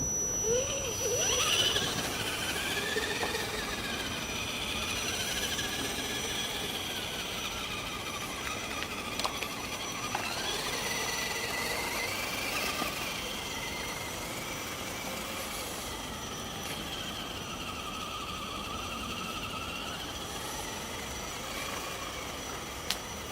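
Axial 4x4 RC Jeep's electric motor and gears whining, the pitch rising and falling in slow swoops as the throttle changes, over a steady high-pitched whine.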